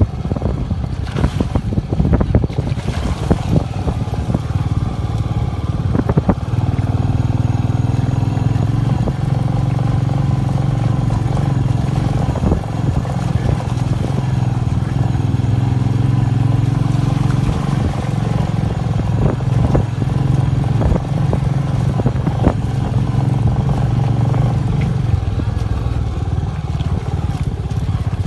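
Royal Enfield Meteor 350's single-cylinder engine running under way. Its note becomes steady about six seconds in and eases near the end.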